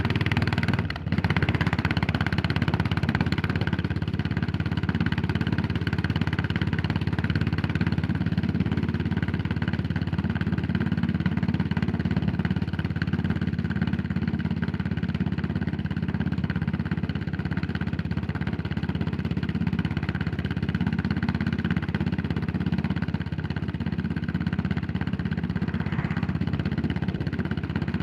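Yamaha SR400's single-cylinder four-stroke engine getting louder suddenly as the bike pulls away from a quieter idle, with a short dip about a second in, then running steadily under way.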